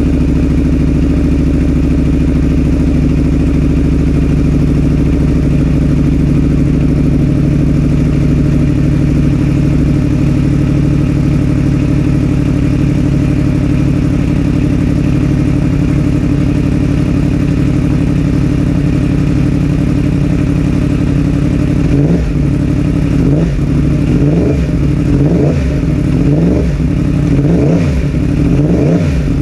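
2021 Yamaha R1's crossplane inline-four running through a Graves aftermarket exhaust, idling steadily, then revved in short sharp blips about once a second for the last several seconds.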